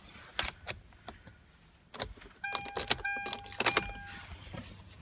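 Clicks and rattles of keys and hands working inside a 2016 Kia Sportage's cabin, then the car's electronic warning chime sounding in short repeated tones from about halfway.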